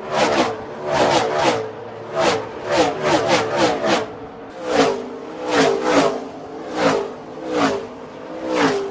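A pack of Gen 6 NASCAR stock cars with V8 engines at full throttle whizzing past one after another in quick succession. Each car's engine note drops in pitch as it goes by.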